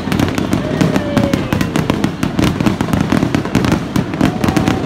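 Aerial fireworks bursting in quick succession: dense crackling over a continuous low rumble of booms.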